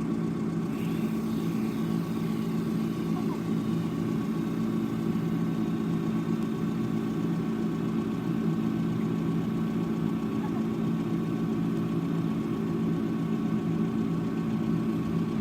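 A steady low motor hum with a faint thin whine above it, unchanging in pitch and level throughout.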